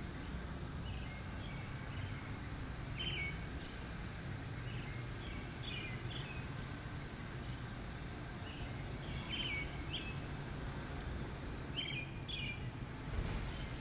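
Small birds chirping in short repeated calls every second or two over a steady low rumble of background noise, with a brief louder knock near the end.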